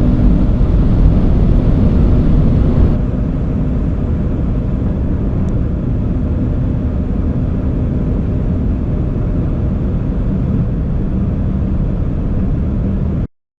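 A car with a turbocharged four-cylinder engine driving at high speed: a steady mix of engine, wind and tyre noise. About three seconds in the sound drops a little and turns duller, and near the end it cuts off suddenly.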